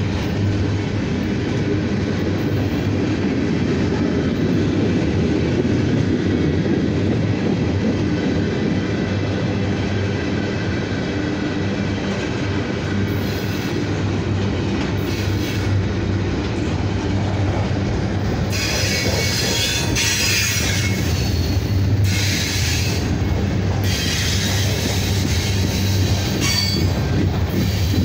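Freight train rolling past at close range: the steady rumble of steel wheels on rail as flatcars and hoppers go by. About two-thirds of the way through, the wheels start squealing in high-pitched bursts that come and go.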